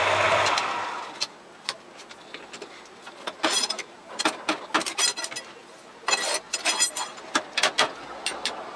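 Lathe motor running down and stopping in the first second, followed by a scatter of sharp metallic clicks and knocks in two clusters, like tools and parts being handled at the machine.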